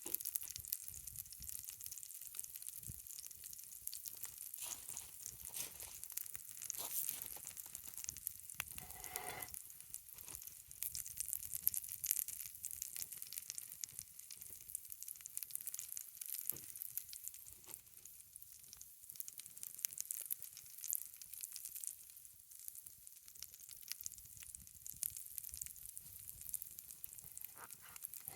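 Steady sizzling and fine crackling from pancakes frying in a cast iron skillet over a campfire, with small pops throughout.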